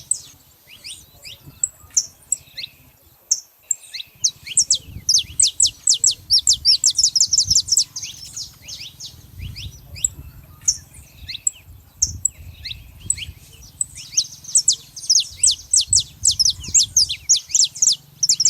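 A group of saffron finches calling, with many sharp, quickly falling chirps. The calls come in two dense rapid runs, one in the first half and one near the end, with scattered chirps between them. A faint low rumble runs underneath.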